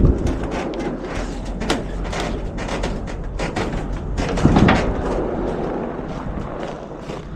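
Repeated knocks and rattles over a steady low rumble, with a heavy thud at the start and a louder one about four and a half seconds in.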